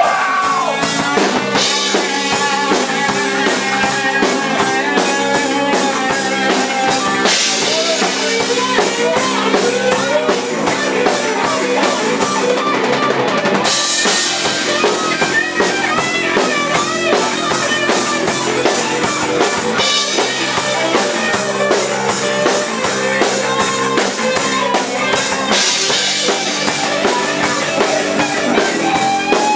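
Live punk-rock band playing an instrumental guitar solo over a driving drum kit and bass, with bending lead-guitar lines and steady cymbal hits.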